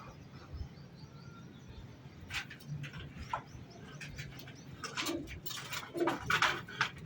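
Birds calling: short chirps and calls scattered through, bunched together in the last couple of seconds.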